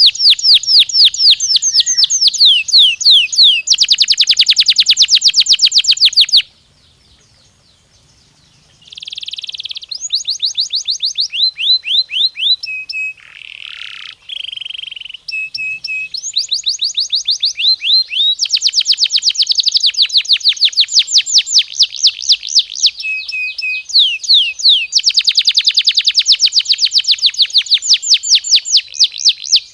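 Domestic canary singing: long rolling trills of fast, evenly repeated sweeping notes, high-pitched and loud. There is a pause of about two seconds roughly a quarter of the way in.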